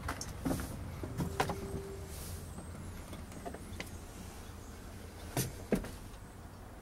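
GMC C6500 truck's engine idling with a steady low rumble, with a few sharp clicks and knocks, the loudest two about five and a half seconds in, and a brief steady tone about a second in.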